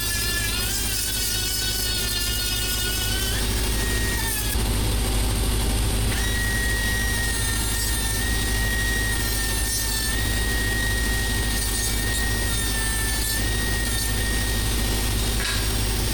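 Angle grinder with a grinding pad running, a steady high whine that shifts and dips slightly in pitch as it works, deburring the edges of cut stainless steel plate. The whine breaks off about four seconds in and comes back about two seconds later.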